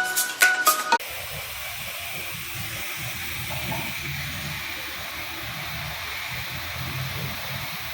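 Mallet-like intro music cuts off about a second in, giving way to the steady hiss of high-pressure water jets in a touch-free automatic car wash, with a low rumble underneath.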